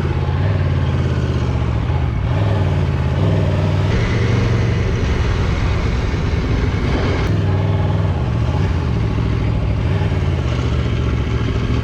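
Motorcycle engine idling steadily, a low even drone that holds its pitch.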